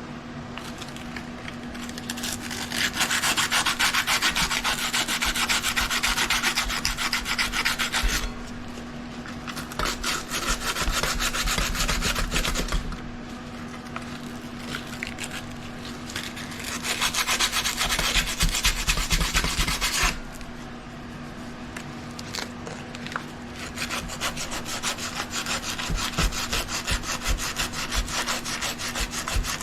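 Rapid rubbing or scraping strokes by hand, in four bouts of several seconds each, over a steady low hum.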